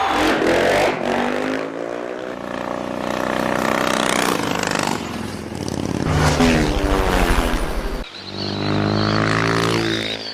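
Motorcycle engines revving, climbing in pitch several times over, with abrupt changes where one run cuts to the next.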